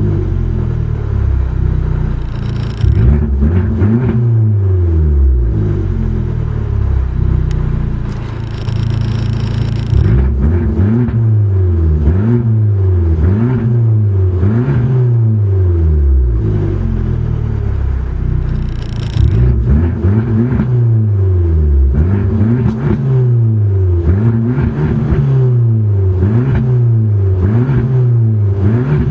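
Fiat Abarth engine revved over and over, the pitch climbing and dropping back every second or two, with one longer held rev roughly a quarter of the way through.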